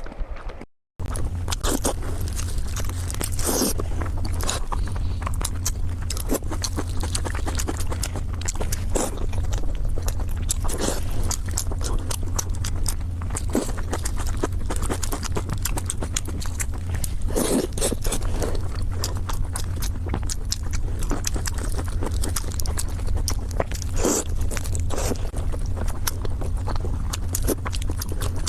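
A person chewing braised pork belly close to the microphone: many wet smacking and clicking mouth sounds, over a steady low hum.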